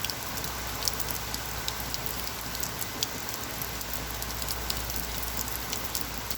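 Heavy rain pounding on a porch: a steady hiss of downpour with many small drop ticks scattered through it.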